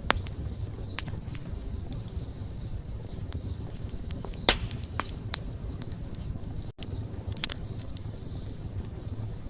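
Wood campfire burning: a low steady rumble of flame with scattered sharp pops and crackles, the loudest about halfway through. The sound drops out for an instant a little past two-thirds of the way.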